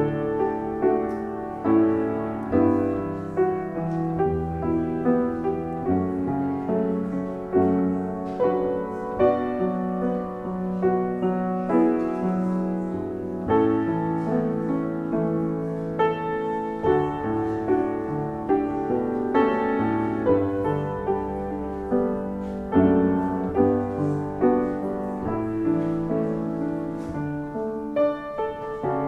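Piano playing slow, chordal music, each chord struck and left to ring before the next.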